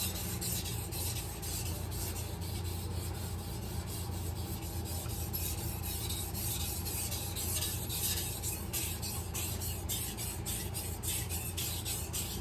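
Kitchen knife blade being stroked back and forth across a wet 800-grit Cerax whetstone, a steady series of gritty scraping strokes through the slurry as the edge is ground.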